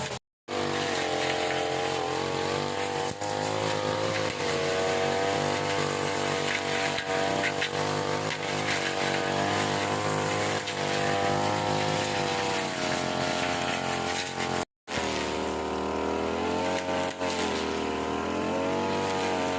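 A small petrol engine of a grass-cutting machine running steadily, its pitch wavering slightly under load. The sound drops out abruptly twice, once just after the start and again about three-quarters of the way through.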